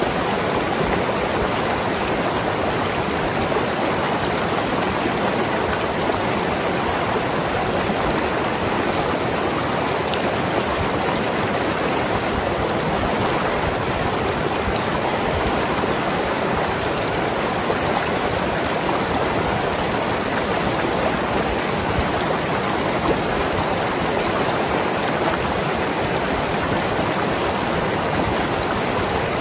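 Mountain river flowing over rocks, a steady rush and gurgle of water.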